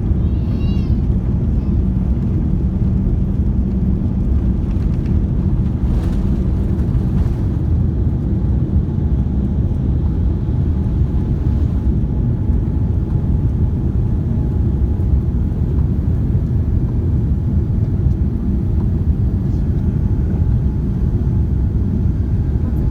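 Steady low roar of a Boeing 787-9 airliner with Rolls-Royce Trent 1000 engines, holding an even level throughout.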